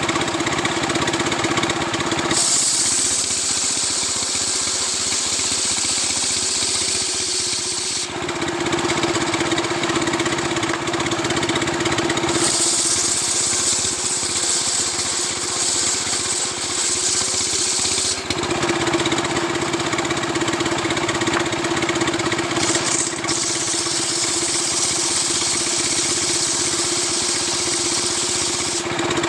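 Stihl two-stroke chainsaw running without a break while ripping a coconut palm trunk. It settles into two cuts of about six seconds each, starting about two seconds in and again about twelve seconds in; these bring a bright hiss, and between them the saw runs free on a steady tone.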